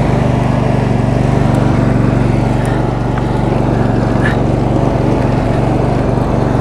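The 22 hp V-twin engine of a Roper lawn tractor, a Briggs & Stratton, running steadily under way.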